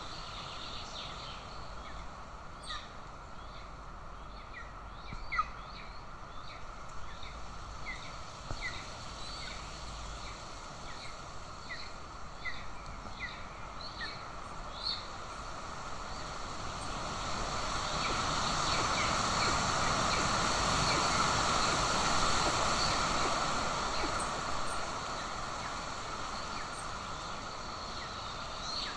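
A bird gives short, high chirping calls, each sweeping down in pitch, about one a second. About halfway through the calls stop and a rush of wind noise swells up, then fades over several seconds.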